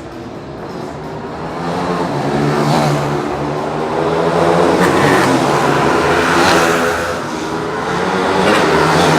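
Pitbike engines revving and changing pitch as the mini motard bikes ride the circuit. The sound grows louder over the first few seconds, falls back briefly near the end, then rises again.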